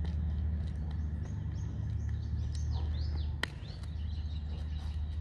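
A bird calling in a quick run of high, arching chirps over a low steady rumble. A single sharp click comes about three and a half seconds in, followed by a thin high note held for about a second.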